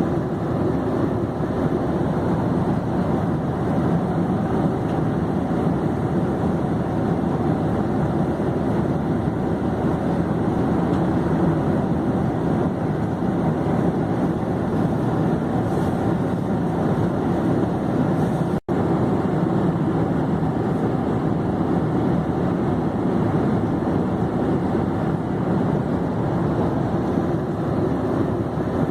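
Airplane in flight: a steady, even rumble of engine and rushing air, broken by a split-second gap about two-thirds of the way through.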